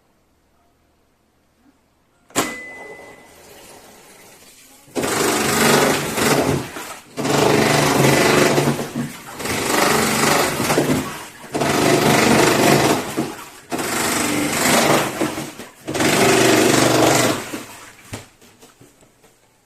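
Iris Ohyama IAW-T606-B top-loading washing machine: a short beep about two seconds in, then its pulsator churning the wash in six runs of about two seconds each with short pauses between, which stop near the end.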